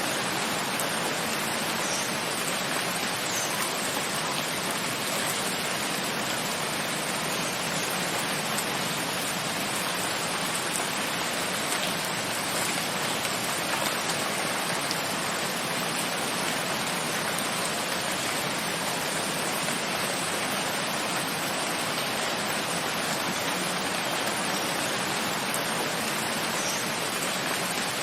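Steady heavy rain falling, an even dense hiss that holds at one level without let-up.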